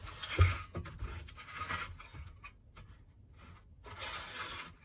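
Scraping and rubbing as the pull-cord recoil starter of a lawnmower is worked on by hand, with a knock about half a second in and a second stretch of scraping near the end.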